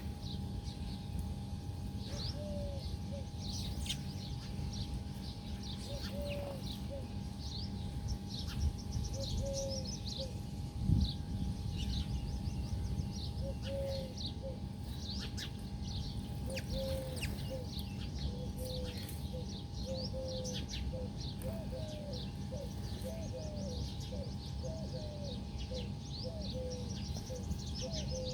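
Many birds chirping and twittering in quick high notes, with a lower bird call repeating in short hooked notes, more often in the second half. A steady low rumble and a faint hum run underneath, with one brief thump about a third of the way through.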